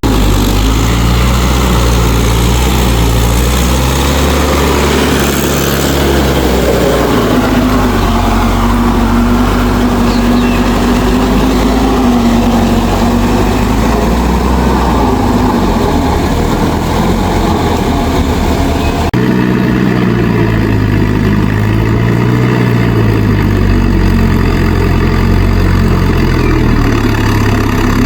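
Mahindra tractor's diesel engine running loudly and continuously, its pitch drifting up and down; the sound changes abruptly about two-thirds of the way through.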